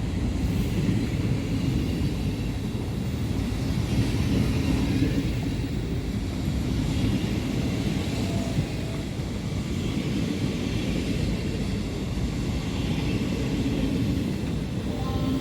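A train passing, a steady low rumble that holds level throughout, with faint high squealing tones over it.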